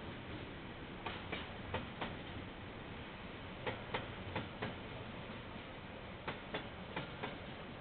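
A train passing, its wheels clicking over the rail joints, often in close pairs, over a steady rumble.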